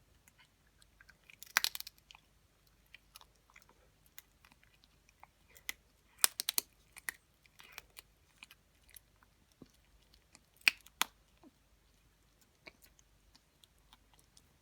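An elderly Yorkshire terrier chewing dry kibble: irregular small crunches and clicks, with louder bursts of crunching about two seconds in, around six seconds in and near eleven seconds.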